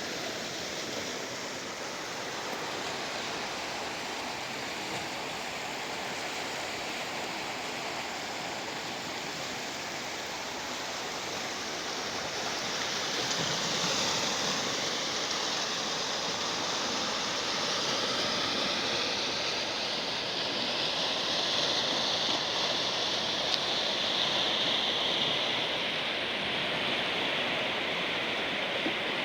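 Sea surf washing on the shore, a steady rush of water that swells louder about halfway through.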